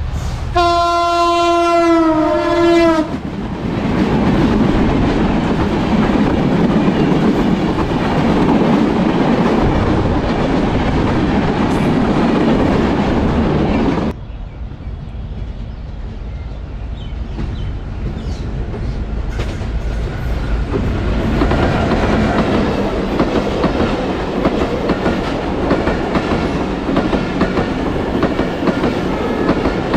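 Diesel locomotive's multi-tone air horn sounds once for about two and a half seconds, and then the train rushes past loudly. The sound cuts off abruptly about halfway through. Passenger coaches then roll by with clickety-clack from the wheels on the rail joints, growing louder toward the end.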